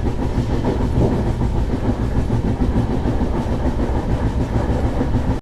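Passenger express train running along the track, a steady rumble with some rail clatter.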